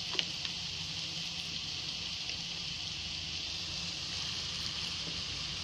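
Steady sizzling of chopped vegetables frying in a kadhai, with one light click just after the start.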